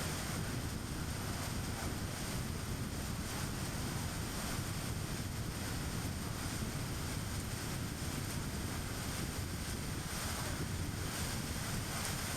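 Steady road noise of a car driving: tyres rolling on the road with a low drone, even throughout with no sudden sounds.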